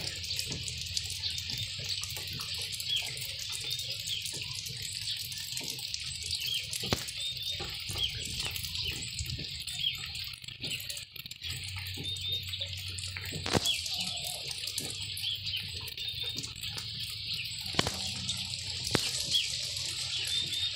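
Steady rain, with birds chirping over it in short, repeated high calls.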